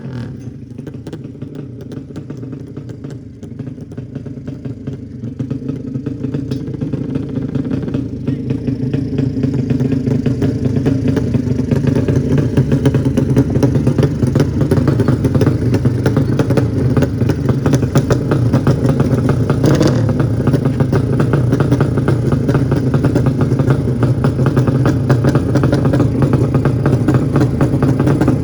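A 200cc drag-bike engine running at a steady speed with a fast firing rattle. It grows louder over the first ten seconds or so, then holds steady.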